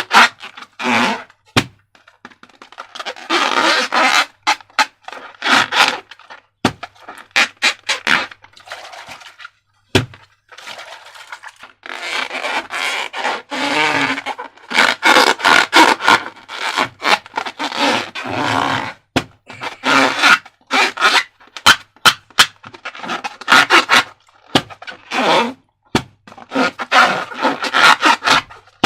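Hands handling slime and rubber balloons: irregular sticky squishing and rubbing with crackles and sharp clicks.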